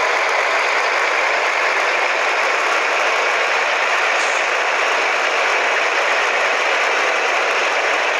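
Scania 113H truck's 11-litre inline-six diesel running through a straight-through exhaust, a loud, steady, even noise with no change.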